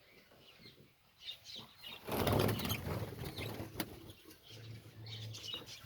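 Lovebirds chirping in short, scattered calls, with a loud burst of rustling about two seconds in and a few sharp clicks.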